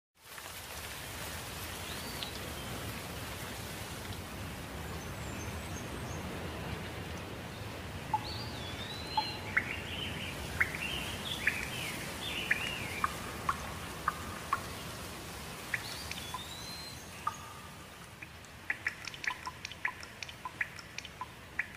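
Birds calling over a steady background noise: a few slurred whistles and scattered short chirps, then a quick run of short chirps or ticks near the end.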